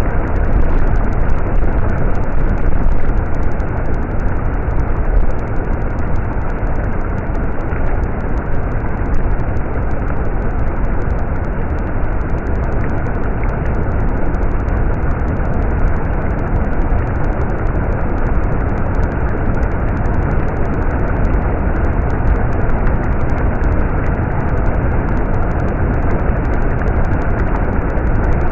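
Stream water flowing, a steady, even sound of running water.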